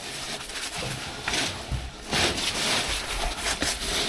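Rustling and scraping of clothing and gear against rock as someone crawls through a tight cave squeeze, with a few light knocks.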